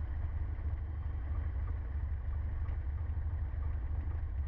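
Cessna 150's four-cylinder Continental O-200 engine running steadily at idle, heard from inside the cockpit as a low, even drone, just before the pre-takeoff run-up.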